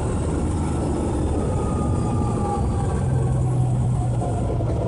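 Truck cab interior while driving: the diesel engine and road noise drone steadily, with a faint higher whine, and the engine note grows stronger about three seconds in.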